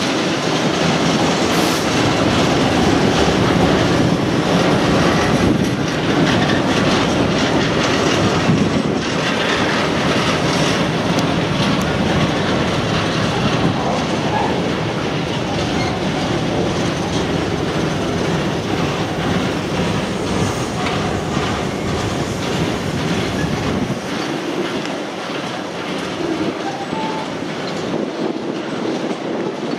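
Long freight train of empty cement tank wagons rolling past, their wheels clattering rhythmically over the rail joints. The deep rumble thins out about 24 seconds in while the wheel noise carries on.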